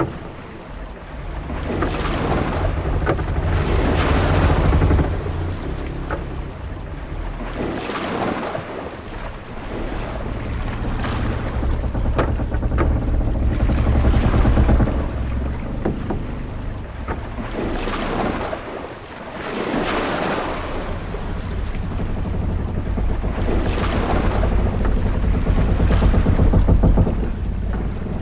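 Sea waves washing against a ship's hull with wind, swelling and easing every several seconds over a deep rumble.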